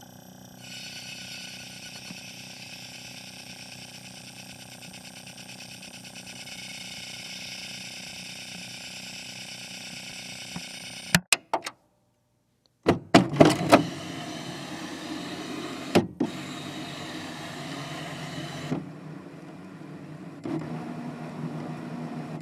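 A run of separate device sound effects: a steady electrical hum with hiss for about ten seconds, a few sharp clicks, a brief silence, then a burst of loud clicks and clunks leading into a mechanism running steadily, with another click partway through.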